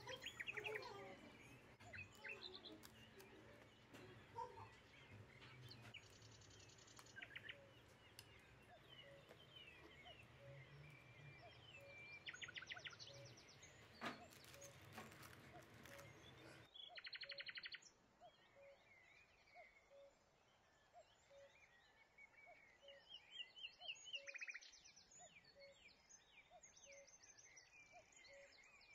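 Faint birdsong: scattered chirps and short, rapid trills from several small birds, over a low hum that drops away about two-thirds of the way through.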